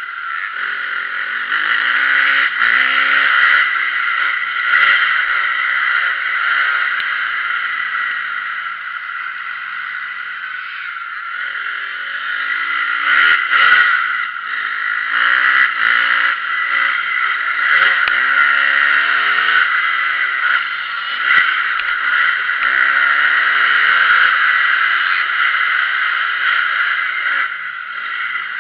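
Motocross bike engine revving up and down over and over, rising and falling in pitch as it accelerates and shifts gear, over a steady hiss.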